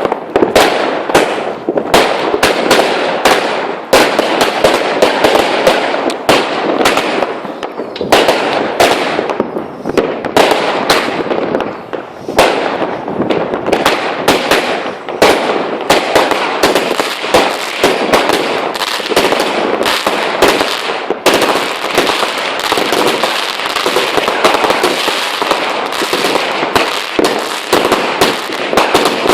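Fireworks and firecrackers going off without pause: sharp bangs several times a second over a continuous dense noise of further explosions.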